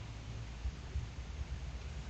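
Steady background hiss with an uneven low rumble, as picked up by a trail camera's microphone, with no distinct event.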